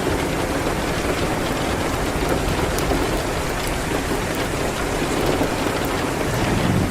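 Steady rain hitting a window, with faint small crackles of a wood fire scattered through it.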